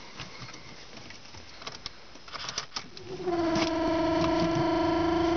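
Cold start of a 2007 Ford Focus 1.6 TDCi Duratorq diesel after a night at about −13 °C. A few faint clicks come first, then about three seconds in the starter motor begins cranking, a steady whine with a fast pulse. The engine is slow to catch in the cold.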